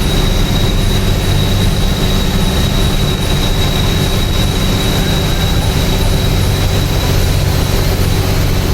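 Truck engine running steadily: a continuous low drone with a thin, steady high whine over it.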